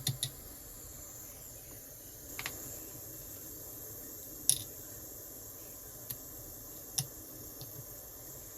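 A few light, sharp clicks and taps of small metal parts and hand tools being handled, spaced unevenly, over a steady faint hiss.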